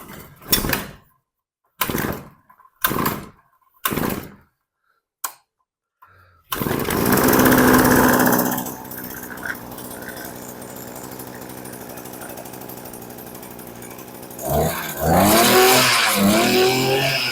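Earthquake tiller's 43cc two-stroke engine being pull-started: five or six short pulls on the recoil starter, then it catches about six seconds in. It runs fast for a couple of seconds, settles to a steady idle, and near the end is revved up several times, its pitch rising with each blip.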